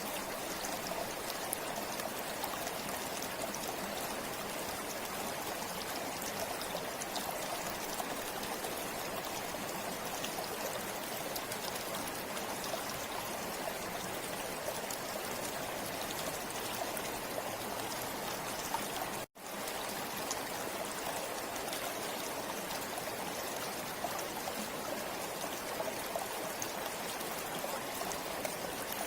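River water flowing over stones: a steady, continuous rush with fine trickling, briefly cutting out for a split second about 19 seconds in.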